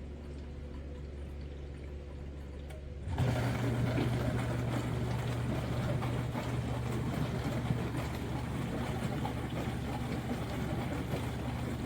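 Adamson A30 countertop dishwasher running, with a low motor hum. About three seconds in, its wash pump comes on with a steady low drone and water sprays and splashes inside the tub.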